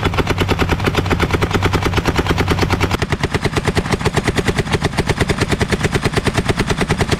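M1919 Browning machine gun firing blanks in one long, rapid, continuous burst, about eight or nine shots a second. The burst stops right at the end as the ammunition box runs empty.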